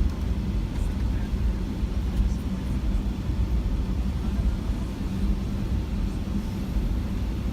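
Steady low cabin rumble inside a Boeing 757-200 on the ground before takeoff, with faint steady hums over it.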